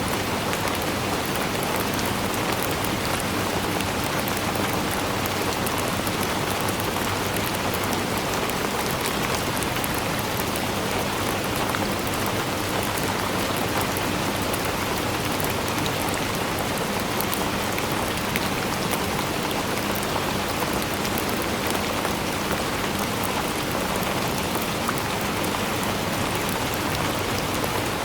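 Steady rainfall: an even hiss of rain with many small drop patters, unchanging in strength.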